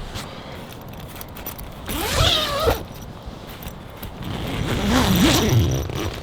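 A zipper pulled twice in long strokes, the first shorter, the second about two seconds long, each rasp wavering in pitch as the pull speeds and slows.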